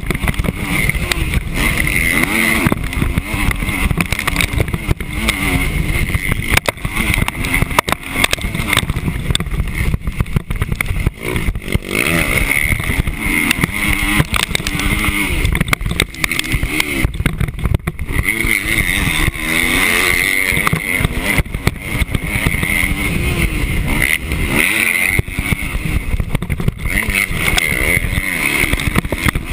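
Motocross bike engine heard on board, revving up and falling off over and over as the rider accelerates and backs off around the track, over a heavy rumble of wind on the microphone and scattered sharp knocks.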